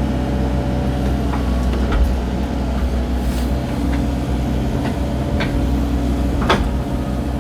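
Excavator's diesel engine running steadily while grading, with a few short knocks, the sharpest about six and a half seconds in.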